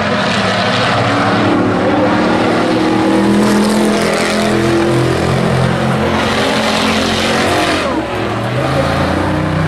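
Engines of several race trucks running on the track at racing speed, their pitches shifting up and down as they accelerate and back off, with a short dip in loudness near the end.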